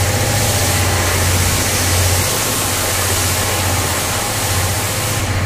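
Running noise of a Chichibu Railway SL Paleo Express passenger coach moving slowly out of a station, heard at an open window: a steady low hum with a hiss over it that fades near the end.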